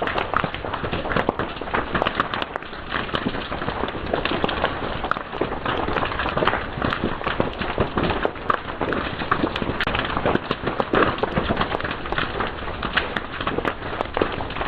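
Fire crackling and popping, with a dense, irregular run of sharp snaps over a steady hiss.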